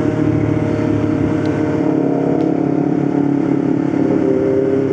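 Motorcycle engine running steadily while riding, its note easing slightly and then changing pitch about four seconds in.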